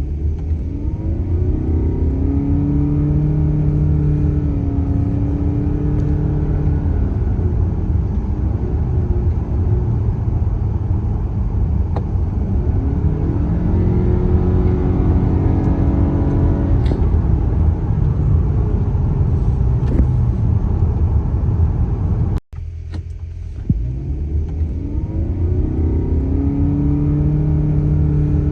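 Car engine and road rumble while driving. The engine note rises as the car speeds up, holds, and eases off, then rises again midway. About two-thirds through the sound cuts out for a moment and resumes with the engine picking up speed again.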